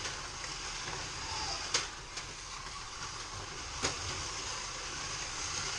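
Racing game car sound playing steadily over speakers as a hissing drone, with three sharp clicks: two close together about two seconds in and one about two seconds later.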